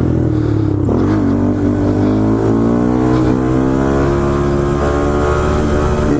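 Motorcycle engine running under throttle: its note dips briefly about a second in, then rises steadily for a few seconds as it accelerates, then holds.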